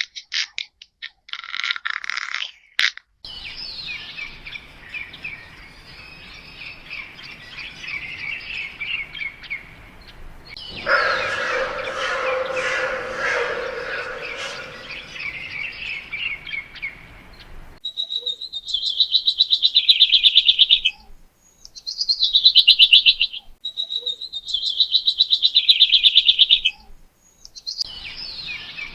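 Birds chirping and twittering in several abruptly cut segments. In the later part come three loud, rapidly pulsing trilled calls, each lasting two to three seconds with short gaps between.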